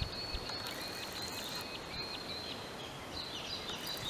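Small birds calling over a steady outdoor hiss: a high chirp repeated about two or three times a second, then a different, chattering call near the end. Two faint low knocks come right at the start.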